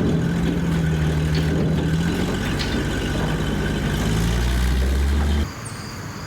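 International Harvester 270A backhoe's diesel engine running steadily on its rebuilt injection pump, then stopping abruptly about five and a half seconds in.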